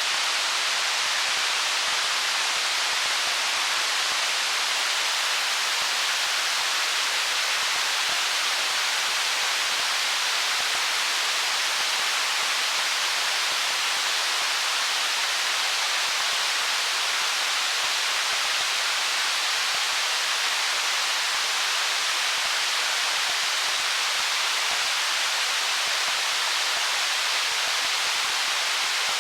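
Stream running over stones: a steady, unbroken rush of water, even in loudness throughout.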